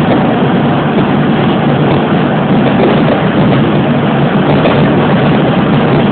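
Steady running noise of an SKM commuter train at speed, wheels rolling on the rails, heard inside the carriage.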